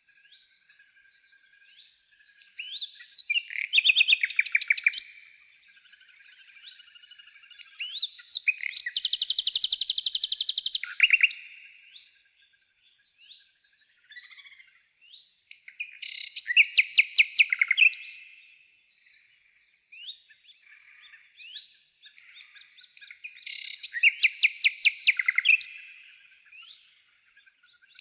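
A songbird singing: loud phrases of rapid trilled notes, about four of them each a few seconds apart, with short single chirps between them.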